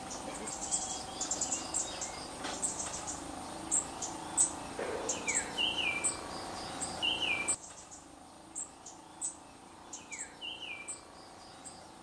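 Several birds calling: quick high chirps throughout, and a repeated whistled call that steps down in pitch, heard three times. The steady background under them drops away about seven and a half seconds in.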